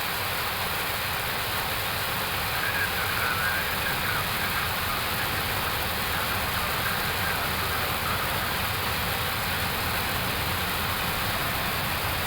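Steady rushing flight-deck noise of an Airbus A321neo in descent toward landing.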